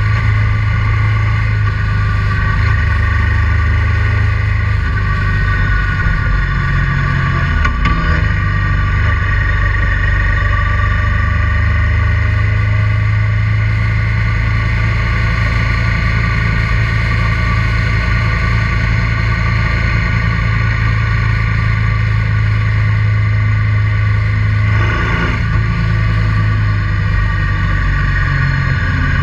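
Honda Transalp 650's V-twin engine running steadily under way. The engine note dips briefly twice, about eight seconds in and again about twenty-five seconds in.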